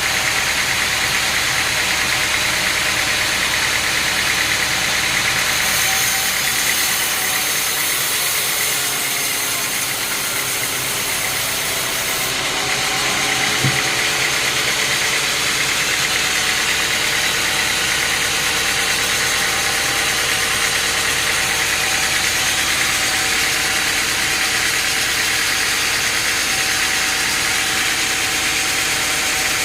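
Sawmill machinery engine running steadily, its pitch shifting slightly about halfway through.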